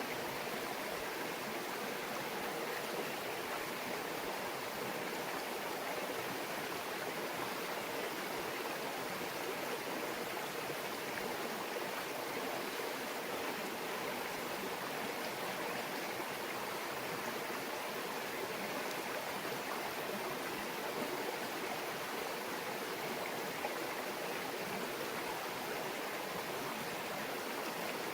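A small mountain stream babbling over rocks: a steady, even rush of flowing water.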